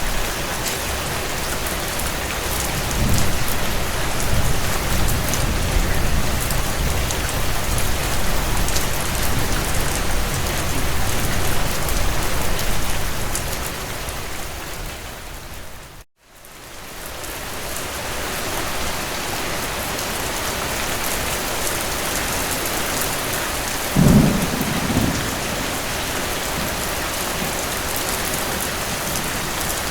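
Steady rain, with thunder rumbling low for several seconds from about three seconds in. The sound fades out briefly past the middle and fades back in. A short, loud thunderclap comes near the end.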